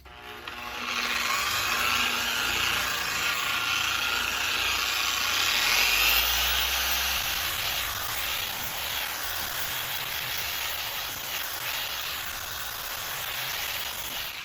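TORQ dual-action polisher running with a soft foam pad on a plastic headlight lens during the final polishing step with finishing polish. Its whine rises in pitch over the first few seconds as the speed is turned up, then it runs steadily until it cuts off near the end.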